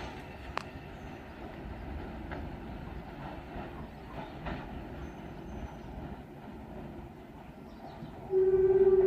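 Class 20 diesel locomotive and wagons rumbling along the cement works line with a few faint knocks, then a loud steady horn note sounds near the end.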